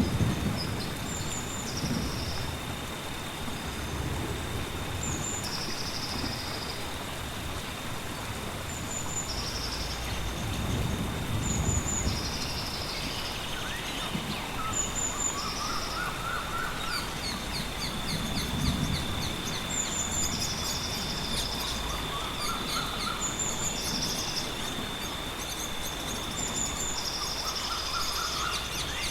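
Rainforest soundscape: short high bird calls repeat every second or two over a steady, high insect drone. Lower trilling calls join about halfway through, and low rumbles of distant thunder come and go.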